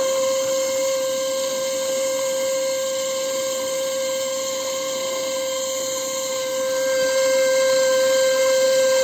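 Small electric motor of a homemade vacuum cleaner running at high speed: a steady high-pitched whine with a hiss of moving air, getting a little louder near the end.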